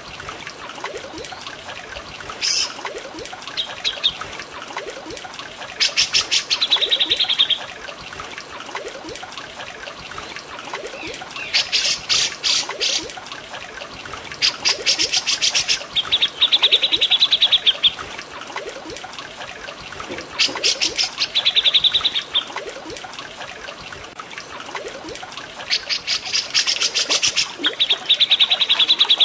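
Repeated songs of cucak jenggot and cililin birds: fast, high, rattling trills every few seconds, several ending in a lower buzzy rattle. Underneath runs a steady trickle of flowing water.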